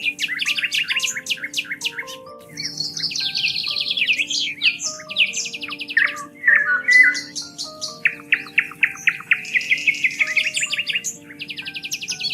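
Songbirds singing rapid trills and chirps, one phrase after another, over soft background music of slow, held low notes.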